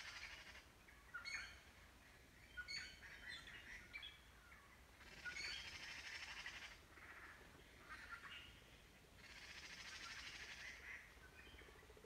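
Faint birds chirping and trilling on and off, in short high calls and bursts of rapid trills each lasting a second or two.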